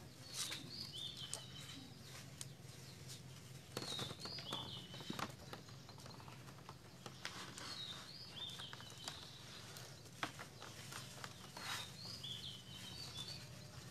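A bird calling over and over, a short phrase of high stepped notes repeated four times about every four seconds, over a low steady hum. Light clicks and taps come from thin bamboo strips being handled in weaving.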